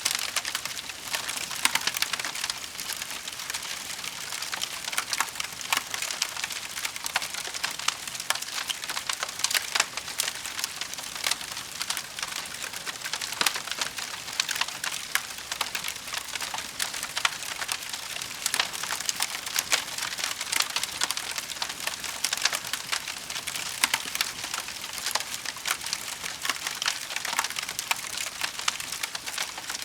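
Wood fire burning with steady crackling: a dense run of small pops and snaps over a soft hiss, with a few louder cracks.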